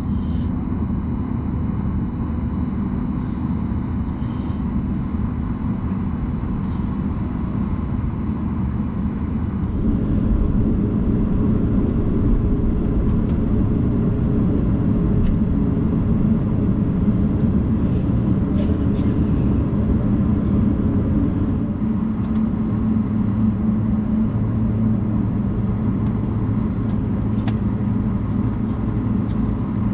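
Steady low rumble and hum inside a Boeing 737 MAX 9 airliner cabin. The sound changes abruptly about ten seconds in and again about twenty-two seconds in.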